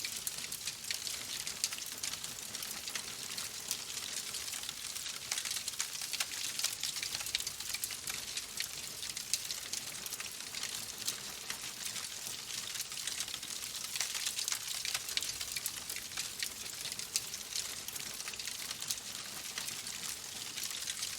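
Wood fire in a fireplace crackling steadily, a dense run of small sharp pops and snaps over a soft hiss.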